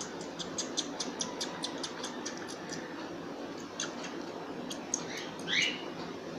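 A quick run of light clicks, about five a second, for the first three seconds, a few scattered clicks after, then one short, high, rising chirp near the end.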